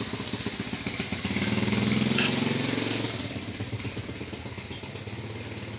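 Small motorcycle engine running, growing louder from about a second in and fading away again over the next few seconds.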